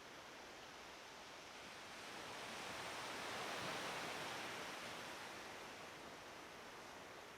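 Faint, gentle surf of a calm sea: a soft hiss of water washing in that swells to a peak about halfway through, then fades.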